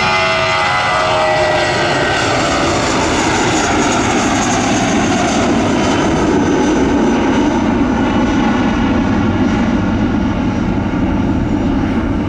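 A jet airliner passing close by. Its engine whine falls in pitch as it goes past in the first couple of seconds, then a steady roar carries on.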